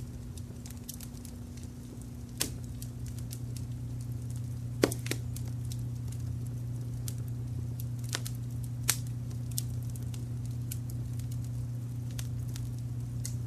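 Wood fire crackling, with irregular sharp pops and snaps; the loudest pop comes about five seconds in. Underneath runs a steady low rumble of brown noise.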